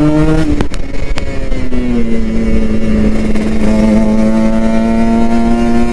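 Kawasaki Ninja RR 150's two-stroke single-cylinder engine running on the move. Its note breaks briefly with a few sharp clicks about half a second to a second in, then holds steady at even revs.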